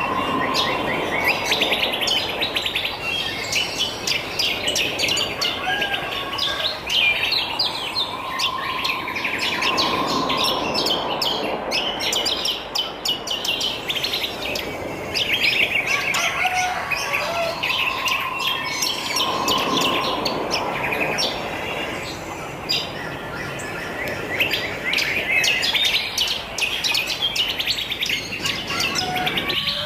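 A chorus of wild birds chirping and twittering, with many rapid high chirps overlapping throughout. A lower held note sounds about every ten seconds.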